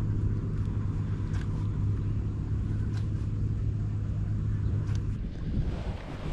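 Steady low engine drone from a motor running nearby, with a few faint clicks over it.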